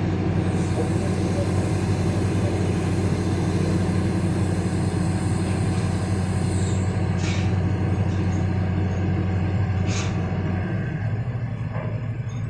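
Heavy diesel machinery engine running steadily with a deep, even hum; its note drops slightly about eleven seconds in. Two short hisses come through, about seven and ten seconds in.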